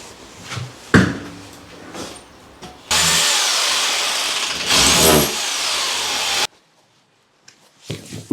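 Hammer drill in chisel mode chasing a recess for a socket box into soft breeze block. It runs for about three and a half seconds with its motor pitch rising and falling, then stops abruptly. A few light knocks come before it starts.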